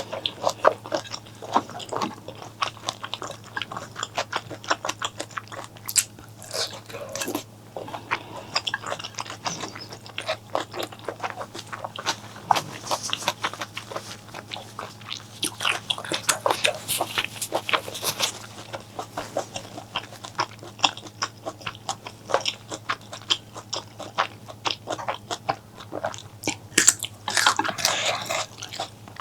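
Close-miked eating sounds: someone chewing and biting food, with many quick wet mouth clicks and smacks. There are a few louder, longer stretches around the middle and again near the end.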